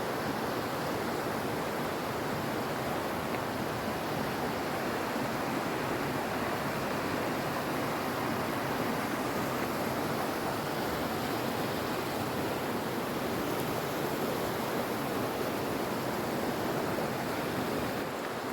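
Steady rush of water, an even noise without a break.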